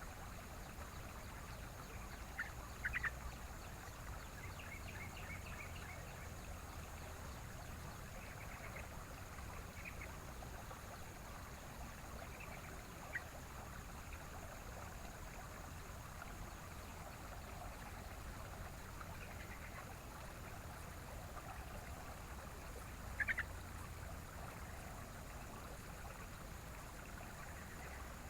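Yellow-vented bulbul (trucukan) giving scattered short chirps, the loudest a few seconds in and again near the end, over the steady rush of a stream.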